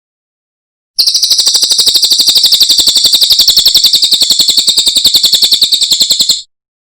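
A cililin songbird's fast, high-pitched trill of evenly repeated notes, about thirteen a second, starting about a second in and held at a steady pitch for some five seconds before stopping abruptly.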